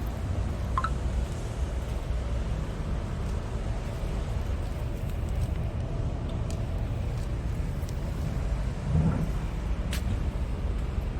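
Diesel engine of a 2011 Scania R tractor unit idling steadily, with a brief louder bump about nine seconds in.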